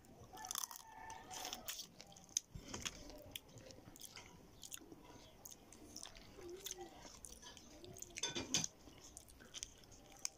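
Close-up eating sounds of cooked shrimp being bitten and chewed with the shell and head on: wet chewing with many short crunches and clicks, the loudest crunch about eight seconds in.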